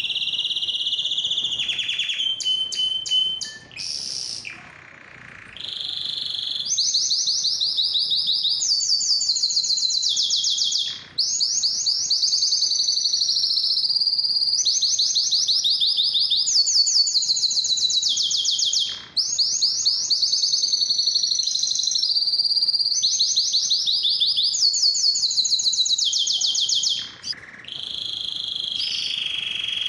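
Male canary singing: long phrases of very fast, high-pitched trills, some holding one pitch and some stepping down, with short breaks about every eight seconds.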